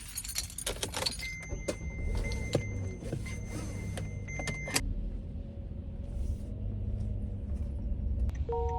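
Minivan being set off: clicks and rattles, then a steady high electronic warning tone lasting about three and a half seconds that cuts off with a click, followed by the engine running low and steady.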